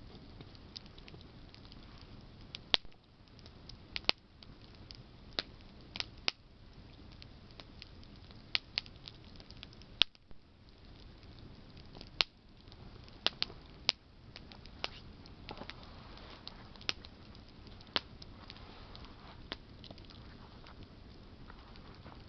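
Wood campfire burning: burning branches crackling and popping with sharp, irregular snaps over a low steady hiss of the flames.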